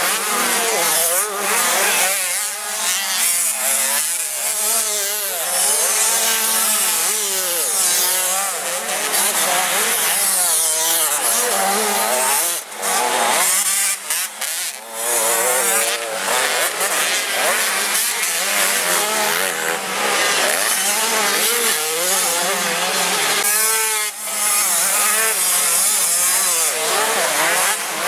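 Several 85 cc two-stroke motocross bike engines buzzing at high revs, their pitch rising and falling over and over as the riders open and close the throttle.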